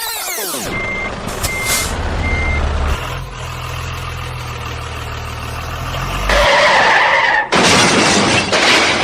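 Truck sounds: three short, evenly spaced reversing-style beeps over a low, steady engine rumble. About six seconds in, this changes to a much louder, noisy blast that stops for a moment and starts again.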